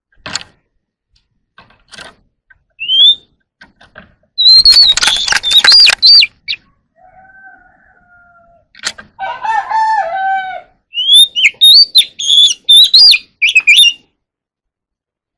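Oriental magpie-robin singing: loud, varied whistled phrases that slide up and down in pitch, delivered in two bursts, with quieter, lower and harsher notes between them. The song stops over a second before the end.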